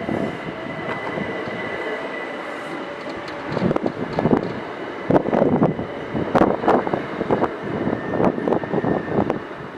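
Train passing along the line at a level crossing, with a steady whine at first and then a run of clattering knocks from about three and a half seconds in as its wheels cross the rail joints.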